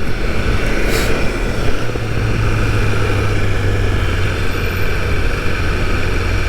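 BMW S1000RR's inline-four engine running steadily while riding, under a steady rush of wind and road noise. A brief click about a second in.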